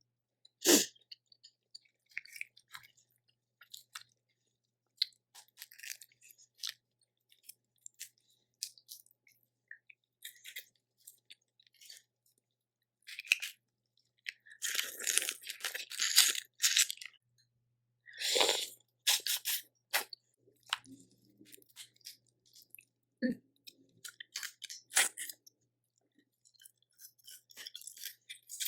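Close-miked eating of a Cajun seafood boil: chewing and crunching with many sharp clicks and cracks, busier and louder for a couple of seconds around the middle and again a little later.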